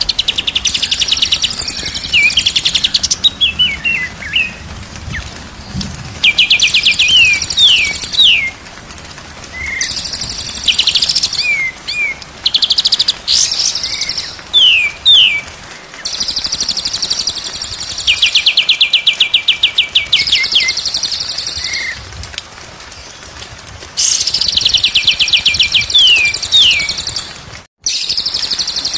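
A songbird repeats the same phrase again and again, every few seconds: a rapid buzzy trill followed by a few quick down-slurred whistles.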